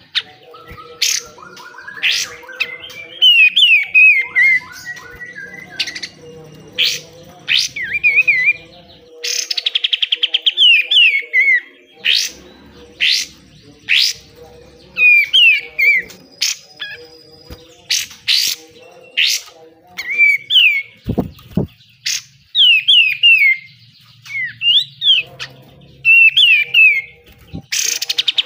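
Kapas tembak bulbul singing hard in its fierce 'besetan' style: a dense run of short, sharp chirps and quick falling whistled notes, with a fast rattling trill about ten seconds in.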